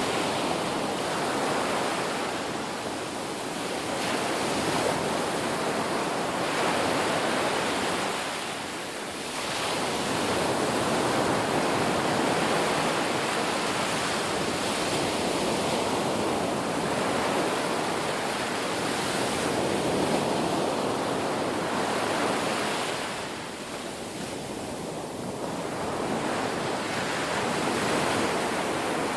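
Ocean waves breaking and washing ashore in a continuous rush that swells and eases every few seconds, with dips near the end of the first third and about four-fifths of the way through.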